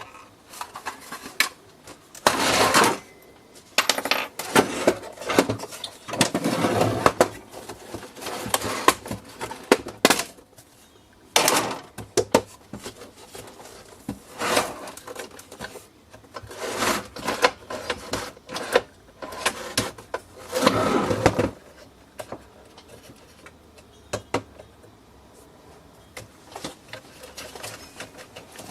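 Irregular clicks, knocks and rattling of hard plastic and small metal parts as a coffee machine is being taken apart by hand, with a few longer bursts of scraping and clattering.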